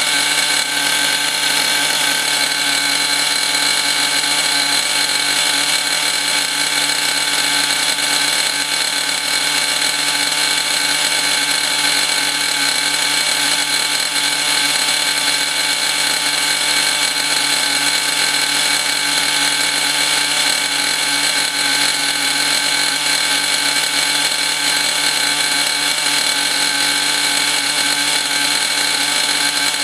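O.S. Max glow-fuel two-stroke model engine running at a steady speed, its pitch holding level throughout. It is running rough on a very rich needle setting during break-in, which the owner blames mostly on two-year-old fuel and an exhaust not suited to the engine. The wooden crate it is mounted on amplifies the sound.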